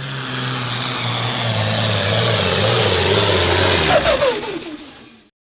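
Diesel pulling truck's engine running hard at high revs with a loud hiss over it, its pitch sagging slightly under load; about four seconds in the revs fall off and the sound fades out.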